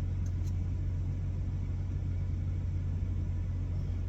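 Steady low rumble of an idling truck, unchanging throughout, with a couple of faint light clicks about half a second in.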